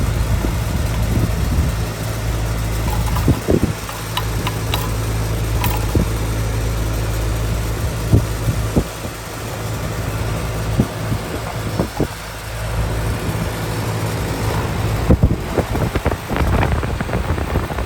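Air-conditioning condenser unit running during refrigerant charging: a steady low mechanical hum and buzz, with scattered clicks and knocks from handling over it.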